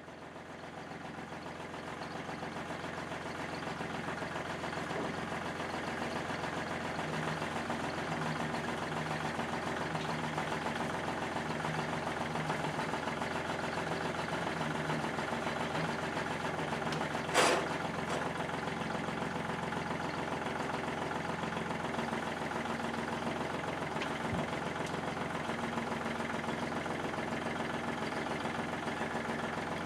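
Car engine idling steadily, with one sharp knock a little past the middle.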